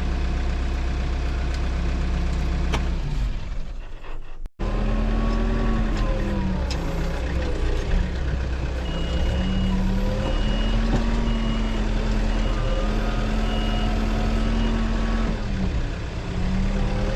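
Tractor engine running, its pitch rising and falling as it works. The sound drops out briefly about four seconds in, and a series of short, evenly spaced high beeps sounds for several seconds in the middle.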